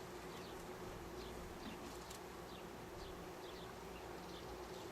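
Honeybees buzzing steadily over an open hive, a low even hum from the colony on the exposed frames.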